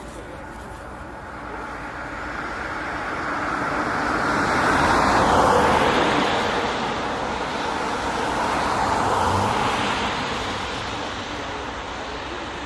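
Jet airliner flying past: a broad engine rush that swells to its loudest about five seconds in, eases, rises a little again around nine seconds, then fades.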